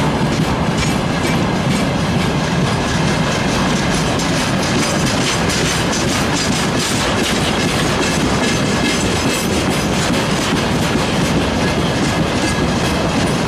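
Long freight train of railway tank cars rolling past: a steady rumble and clatter of wheels on the rails.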